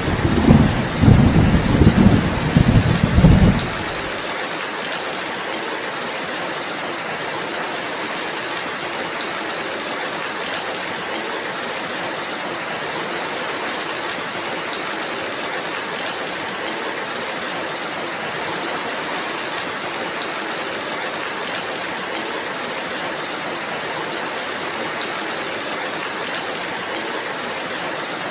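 Steady rain hissing, with a low rumble of thunder that cuts off suddenly about three and a half seconds in; after that only the even rain remains.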